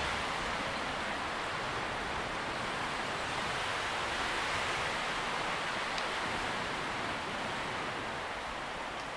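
Wind moving through tree leaves: a steady rustling hiss that eases slightly toward the end.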